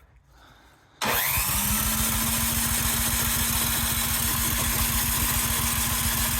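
Cub Cadet 528 snowblower's electric starter cranking its four-stroke engine, starting abruptly about a second in: a steady starter whine over an even, rapid chugging, without the engine catching. The engine has been primed with the choke fully on, and the owner then wonders whether it is flooded from too much choke.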